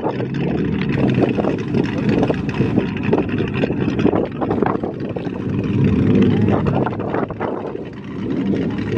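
Loud performance car engines running with a deep, steady exhaust note that swells and dips slightly.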